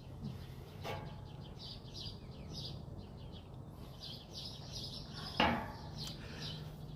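Songbirds chirping and singing in the background over a faint steady low hum. There is one short, louder sound about five and a half seconds in.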